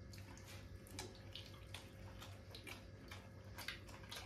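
Faint wet chewing and small mouth clicks of a person eating a piece of chicken with his hands, over a low steady hum.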